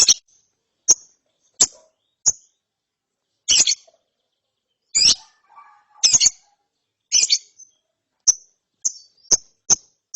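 Young lovebird giving short, sharp, high chirps, about a dozen in irregular ones and twos with silent gaps between them.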